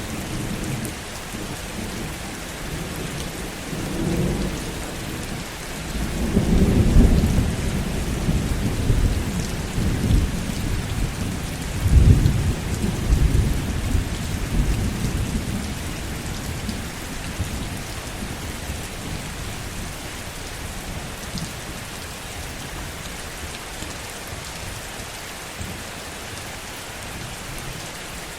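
Heavy rain falling steadily, with thunder rumbling low through the first half, loudest about seven and twelve seconds in, then dying away and leaving only the rain.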